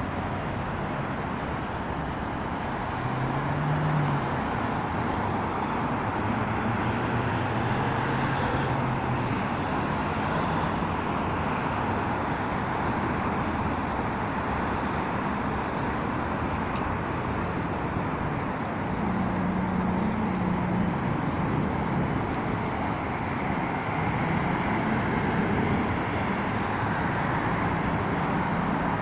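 Steady city traffic noise: cars and other vehicles running in slow, jammed traffic, with the low hum of nearby engines coming and going.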